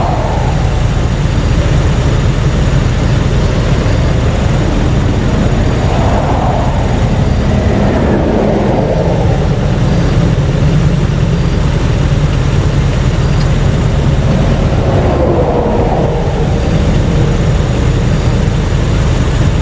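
Highway traffic: a steady low rumble, with three vehicles swelling past and fading away.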